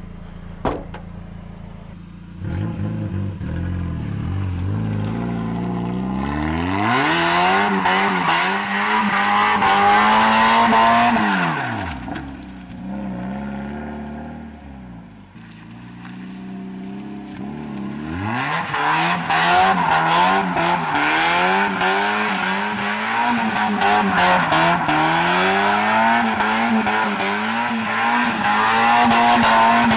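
Mazda Miata's four-cylinder engine, heard from inside the cabin, revving up hard and held at high revs through a drift, with tyre noise over it. About halfway through it drops back toward idle, then revs up again and holds high through a second slide.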